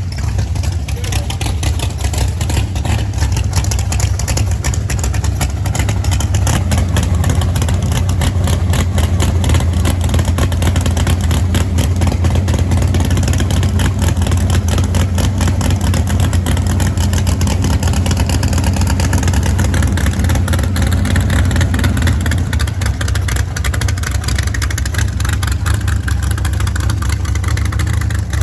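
Car engine running steadily, loud and even, with a rapid firing pulse.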